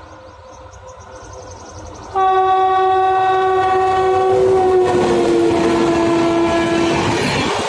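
WAP7 electric locomotive sounding its horn: a loud, held blast starting about two seconds in and lasting about five seconds, its pitch dropping slightly about halfway through. The rushing noise of the passing train grows louder under it toward the end.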